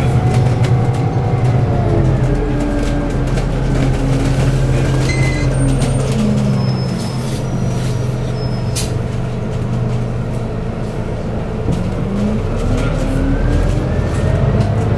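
Scania N280UD bus's 9.0-litre OC09 biogas engine and ZF Ecolife automatic gearbox heard from inside the bus. The engine note falls as the bus slows, runs low and steady for a few seconds, then rises again near the end as it pulls away. A few short high beeps come about halfway through.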